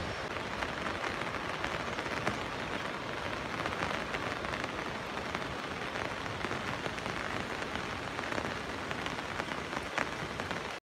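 Steady rain: an even hiss with many small, sharp drop ticks. It cuts off suddenly near the end.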